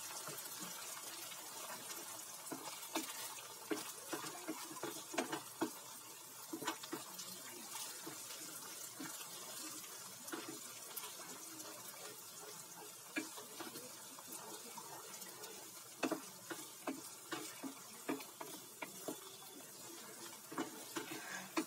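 Browned onions and ginger-garlic paste sizzling in hot oil in a pot, a steady hiss, with a wooden spatula scraping and knocking irregularly against the pot as they are stirred.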